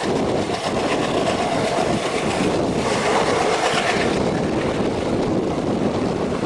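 Broad-gauge passenger train running along the track, heard from an open coach window: a steady, even noise of the wheels and the moving train, with air rushing past.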